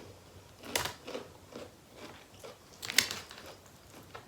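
Close-miked bites and chewing of crunchy food, with louder crunches about a second in and near three seconds, and soft chewing clicks between them.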